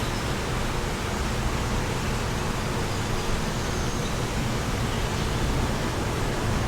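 Steady wind rushing, heavy in the low end, with the constant rumble of wind buffeting the microphone.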